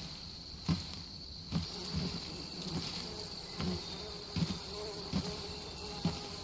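Steady buzzing and chirring of insects in a forest, with slow, even footsteps thudding a little under once a second.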